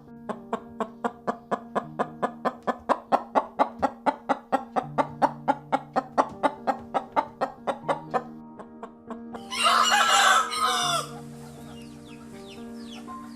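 A rooster crows once, a loud call about a second and a half long, a little past the middle. Before it plays background music with a quick, even pulse of short notes over held low notes. After the crow come faint high chirps.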